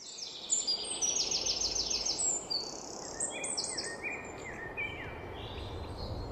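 Several birds chirping and singing, with a fast run of short high falling notes in the first couple of seconds and lower chirps after, over a steady background noise haze.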